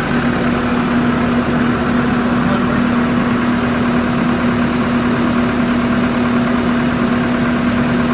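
Engine idling steadily, with a constant hum on top.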